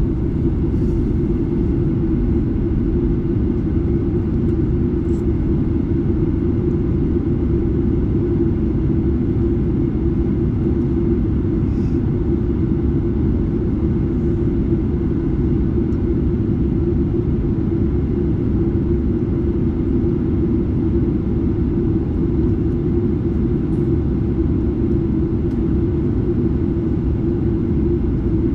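Steady, loud, deep rumble of a Boeing 737-8 in flight, heard from inside the cabin near the CFM LEAP-1B engine: engine drone and airflow noise.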